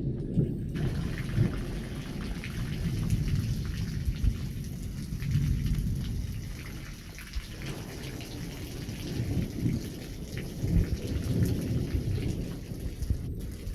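Thunder rumbling low and rolling in swells, with steady rain falling; the hiss of the rain sets in under a second in.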